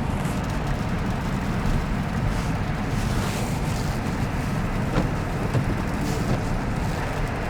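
Steady tyre and road noise heard inside a Tesla's cabin as it drives on a snow-covered road, with a deep rumble and a few faint brief crunches.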